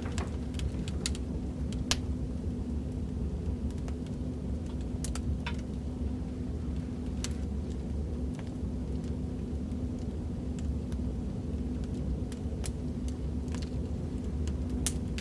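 Recorded fireplace crackling: a steady low rumble of a burning fire with sharp, irregular crackles and pops every second or two.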